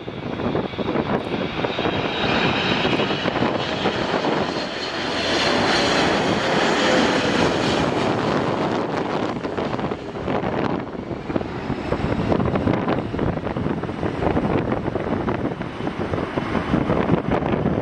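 Jet airliner engines running as the plane passes: a broad rush that swells to its loudest about six seconds in, with a faint whine over it, while wind buffets the microphone.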